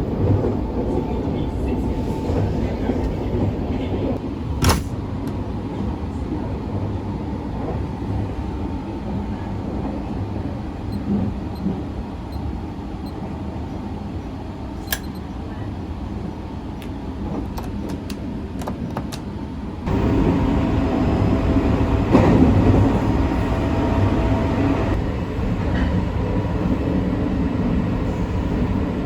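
Sunrise Izumo 285-series sleeper train running on the rails: a steady low rumble with a couple of sharp clicks, growing louder about two-thirds of the way through.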